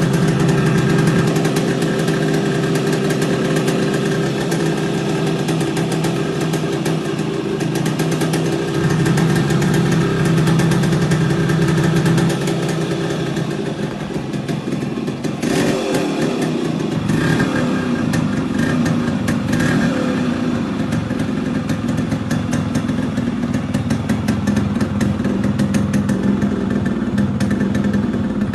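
Yamaha RX135 motorcycle's two-stroke single-cylinder engine running steadily. About halfway through its note dips briefly, then settles at a different steady pitch.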